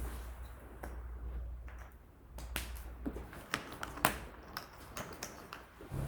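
Irregular light clicks and taps, a dozen or so scattered through, over a faint low hum.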